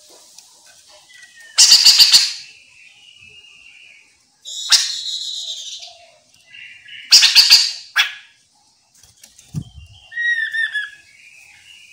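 Chestnut-capped laughingthrush calling: loud harsh rasping calls three times, between them a wavering whistled phrase and near the end a quick run of short down-slurred whistles.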